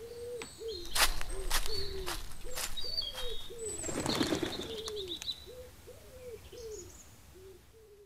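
Birdsong: a pigeon cooing in a run of short repeated notes, with small birds chirping higher above it and a few sharp clicks in the first few seconds; it fades out near the end.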